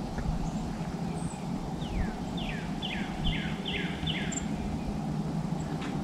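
A songbird sings a run of about six quick downslurred whistles over a bit more than two seconds, over a steady low rumble.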